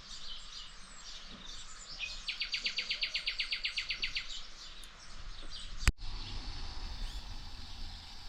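Nightingale singing: scattered chirps, then a fast run of repeated notes at about ten a second lasting about two seconds. About six seconds in comes a single sharp click, after which a steady hiss and low rumble remain with fainter bird sounds.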